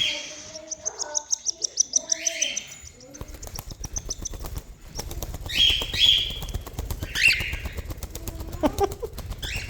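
Hungry cockatiel's begging calls: harsh rasping calls, a quick run of short high chirps over the first few seconds, then a fast fluttering rattle under more harsh calls.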